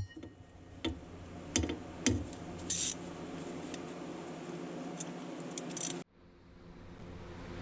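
Light metallic clinks and a brief jingling rattle of hand tools and bolts, several separate taps spread out, over a faint steady hum; the sound cuts off abruptly near the end.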